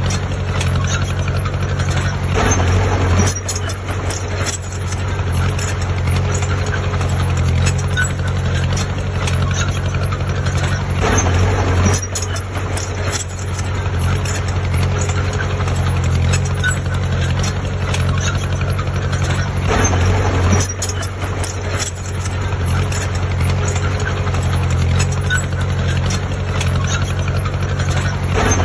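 Heavy diesel engine of construction machinery running at a steady speed, with scattered knocks and clanks.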